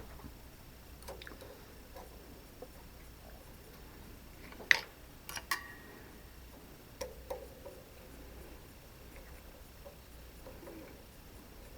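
Faint, scattered clicks and knocks of small parts being handled, the sharpest about five seconds in, over a low steady hum.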